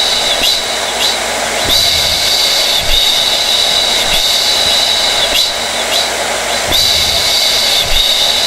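Hair dryer running continuously: a steady rush of air with a high motor whine that wavers slightly and dips briefly about once a second.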